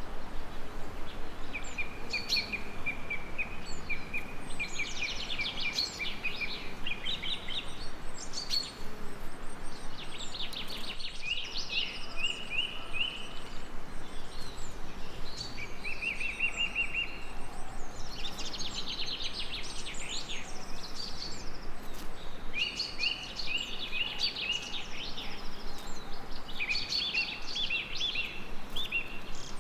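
A songbird singing, repeating short phrases of fast trills and chirps every few seconds over a steady background hiss.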